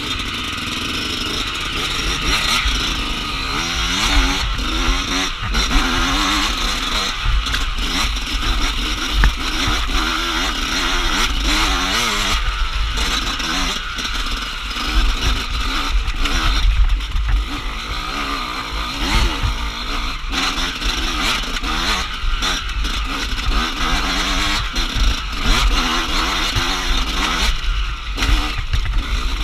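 Off-road dirt bike engine being ridden, its revs rising and falling constantly, with heavy wind rumble on the microphone and scattered knocks and clatter from rough ground.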